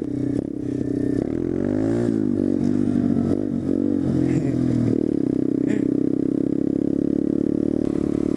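Motorcycle engines running on the move, a pit bike and a larger motorcycle riding together; the engine pitch rises and falls with throttle changes in the first half, then holds steady.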